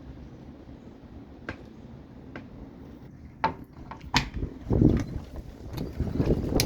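Wind in a storm: a low rumble with a few sharp snaps or knocks, then strong gusts buffeting about four and a half seconds in.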